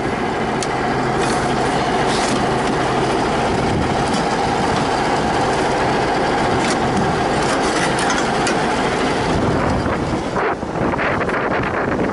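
T-150K tractor's diesel engine idling steadily, with a few short, sharp knocks over it. Near the end the engine sound gives way to gusts of wind on the microphone.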